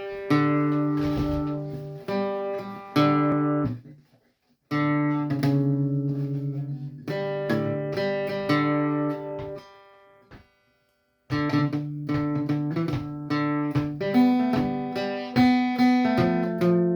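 A reinlender dance tune played on a plucked string instrument, notes and chords ringing and dying away in phrases. The playing breaks off briefly twice, about four seconds in and again around ten seconds in.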